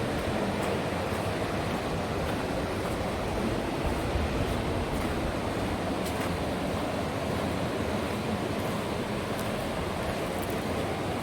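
Green River water rushing steadily, a constant full rush of moving river water.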